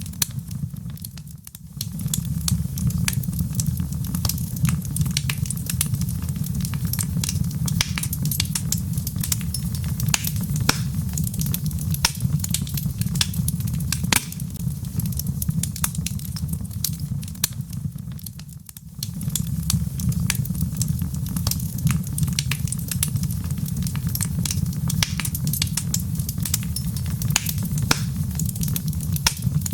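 Wood fire in a fireplace crackling, with frequent sharp pops and snaps over a steady low rumble of flame. The rumble briefly drops away twice, about a second and a half in and again about eighteen seconds in.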